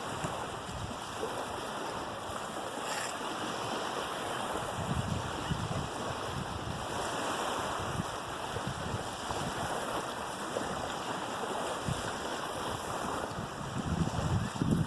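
Steady wash of waves breaking on a shore, with wind gusting on the microphone as low rumbles.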